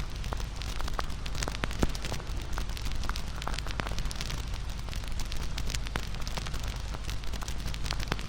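Wood campfire crackling: irregular sharp pops and snaps over a steady hiss and low rumble of burning wood.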